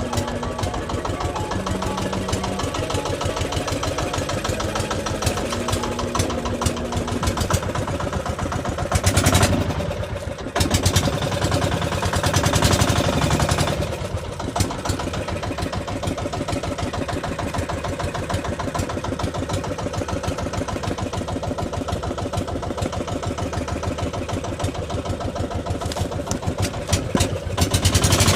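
A small engine running steadily, with two louder, rougher surges: one about a third of the way in and one at the very end.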